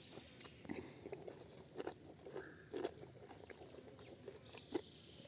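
A person chewing food with their mouth, soft irregular crunching chews, a few louder ones about two, three and nearly five seconds in.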